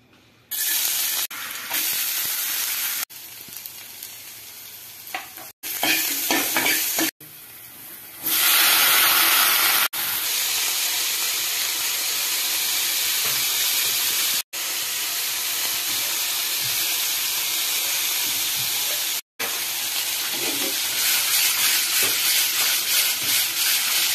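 Mixed vegetables sizzling in hot oil in a non-stick pan while being stirred. The sizzle breaks off and resumes abruptly several times, and is loudest for a couple of seconds about eight seconds in.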